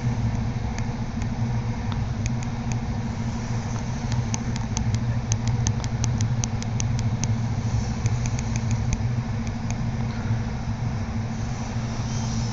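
Steady low rumble and hum of a train running at speed, heard from inside the passenger carriage. A quick, evenly spaced run of light high ticks, about five a second, comes through it from about four to nine seconds in.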